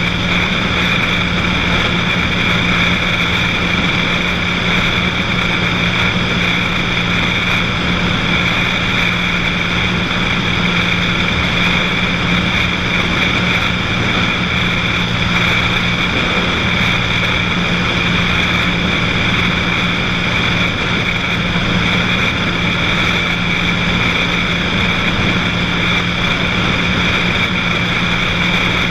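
Cessna 182's piston engine and propeller running steadily in flight, a constant even drone with no change in pitch.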